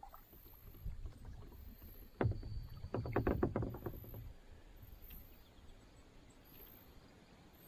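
A knock against a small boat's hull, then a quick run of clattering knocks about a second later, over a low wind rumble.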